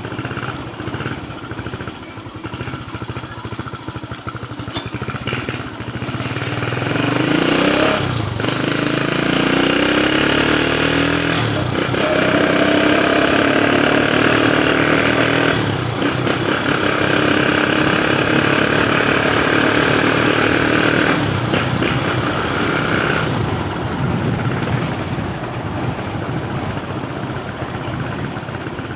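A motor vehicle engine accelerating, its pitch climbing, dropping back and climbing again a few times. It is loud for about a dozen seconds in the middle, then fades into street noise.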